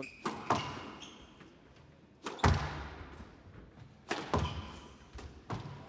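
Squash rally: the rubber ball cracking off rackets and thudding against the court walls, a string of separate knocks at irregular spacing, the loudest a deep thud about two and a half seconds in.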